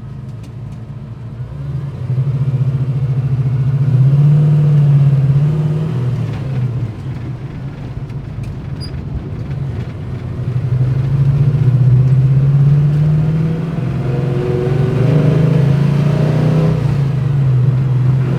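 Chevelle's 383 stroker V8 with Magnaflow mufflers, driving under load. The engine note climbs and drops back several times as the car accelerates and eases off.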